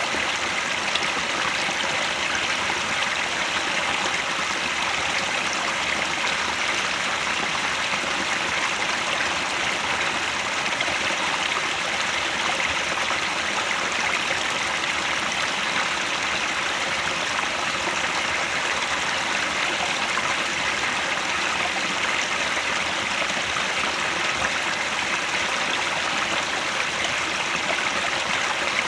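Mountain headwater stream flowing and splashing over rocks, a steady, unbroken rushing.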